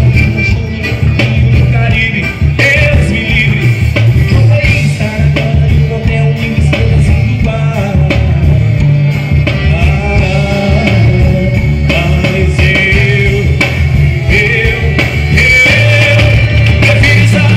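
Forró pé-de-serra band playing a dance tune with a steady beat.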